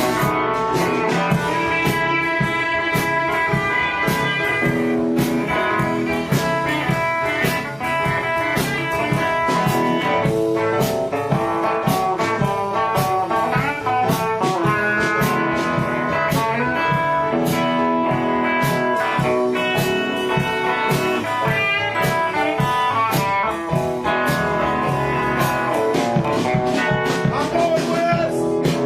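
Blues band playing an instrumental passage led by guitar, with drum kit keeping a steady beat.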